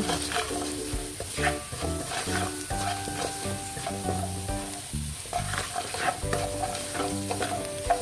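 Minced garlic sizzling as it fries in a little oil in a nonstick pan over medium-low heat, stirred and pushed around with a spatula that scrapes and clicks against the pan now and then.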